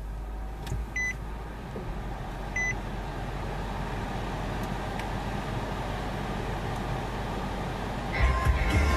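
2013 Nissan Juke's 1.6-litre turbo four-cylinder idling steadily just after a push-button start, heard from inside the cabin. Two short dashboard chime beeps sound about 1 s and 2.5 s in, and the car's stereo starts playing music near the end.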